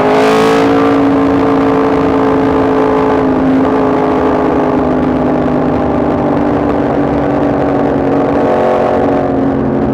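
Yamaha MT-10 SP's crossplane inline-four engine running under way, with wind rushing over the microphone. Its pitch drops briefly as the throttle eases, then holds nearly steady, sagging slowly.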